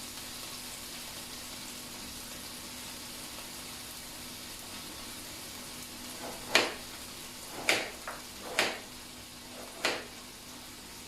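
Food sizzling steadily in a frying pan. From about six seconds in, a utensil knocks sharply against the pan five times, about a second apart.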